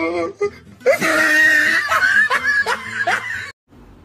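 A person laughing loudly for about two and a half seconds; it cuts off abruptly, leaving faint room tone.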